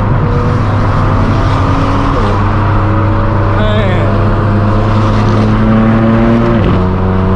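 Straight-piped BMW M4 F82 twin-turbo inline-six under load through a non-resonated AWE Track exhaust, loud and steady. Its note climbs gently and drops back at quick upshifts of the dual-clutch gearbox, about two seconds in and again near the end.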